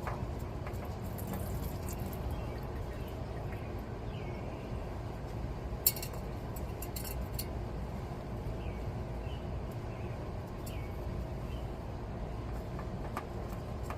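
Metal tool clink: one sharp clink about six seconds in and a few lighter clicks just after, as an oil filter is worked loose, over a steady low hum.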